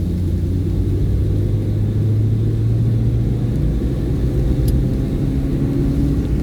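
Hyundai i10 hatchback driving along a road: steady engine and road rumble, with the engine note easing slightly a little past the middle.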